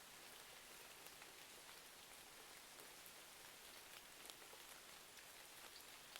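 Faint, steady rain ambience, an even hiss dotted with scattered light ticks of drops.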